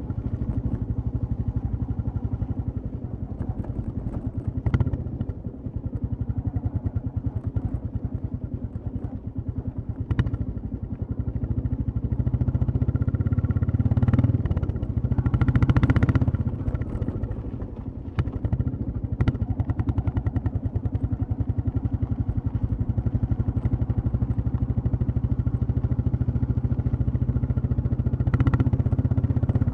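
Royal Enfield Classic 350's single-cylinder engine and exhaust thumping steadily while riding, easing off around 8 s and 18 s and pulling harder, louder, around 15 to 16 s. A few sharp knocks come through now and then.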